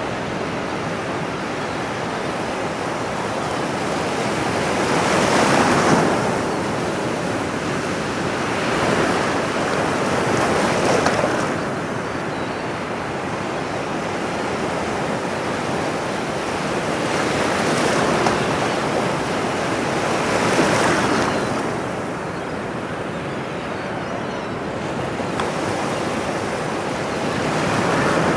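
Ocean waves breaking and washing on a shore, a continuous surf noise that swells every few seconds as each wave comes in.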